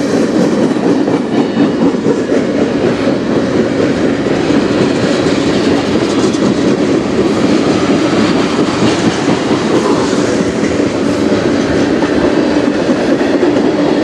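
Freight cars of a manifest train rolling past close by, steel wheels running on the rails with a steady, loud noise.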